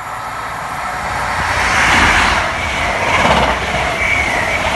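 Class 43 High Speed Train passing along the platform: the diesel power car and wheel noise grow louder as it comes in, then the Mark 3 coaches run past with a steady rush of wheels on rail.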